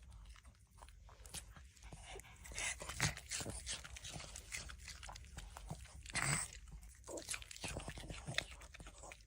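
Faint chewing and crunching: an irregular string of short, crisp crunches, a little louder around the middle.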